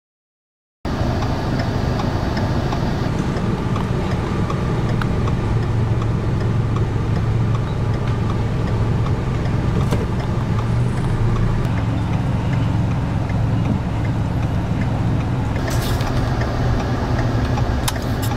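Steady engine and road noise of a moving vehicle, a continuous low hum, with a few brief clicks about two-thirds of the way through and near the end.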